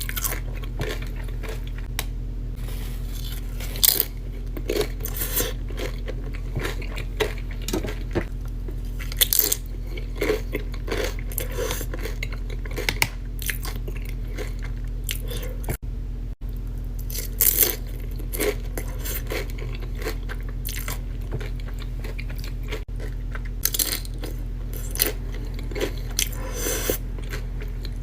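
Close-up chewing and crunching of Doritos tortilla chips, with clusters of sharp crisp crunches every few seconds. A steady low hum runs underneath.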